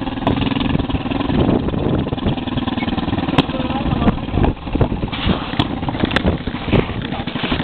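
Small mini-motocross dirt bike engine running at a steady pitch, then rougher, with several sharp knocks and rattles in the second half.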